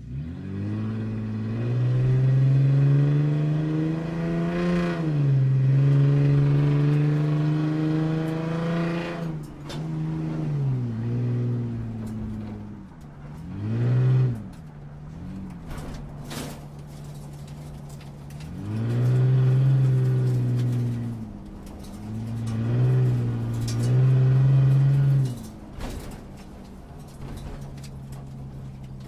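Car engine idling and revved several times: long revs that climb, hold and drop back to idle, and a few short blips in between.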